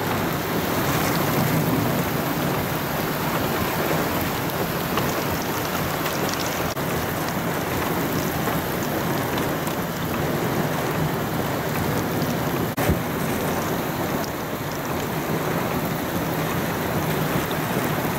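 Heavy rain pouring down in a severe thunderstorm with high wind, a steady dense hiss. One sharp crack sounds about thirteen seconds in.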